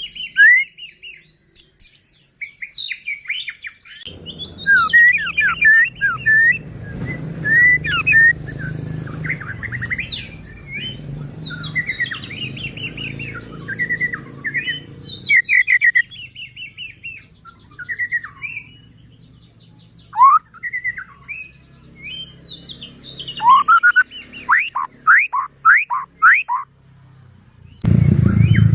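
White-rumped shama (murai batu) singing a long, varied song of loud whistles and quick sweeping notes, with a fast run of rapid up-sweeps near the end. A low hum sits under the song for a stretch in the middle.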